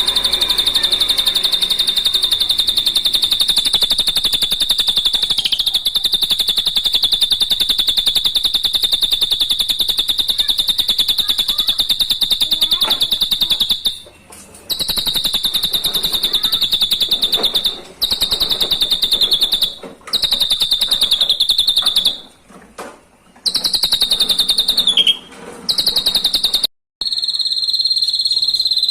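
Drongo (srigunting) song: a rapid, even, high-pitched trill held unbroken for about fourteen seconds, then broken into shorter runs with brief pauses, and after a short clean gap near the end a steadier trill starts again.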